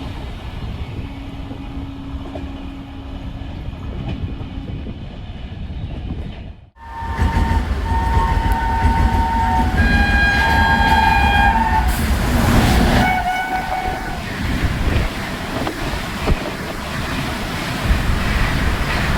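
Electric train running past on the rails with a steady rumble and wheel clatter. Its horn sounds in a couple of long blasts in the middle, after a brief drop-out in the sound.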